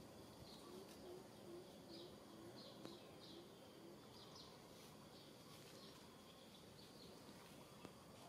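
Faint outdoor ambience with small birds chirping again and again in short high notes. Over the first three seconds, a run of about eight short, low calls repeats evenly.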